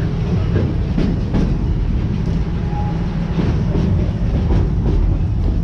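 Open-air park train running along its track: a steady low rumble, with uneven clacks of the wheels over the rail joints.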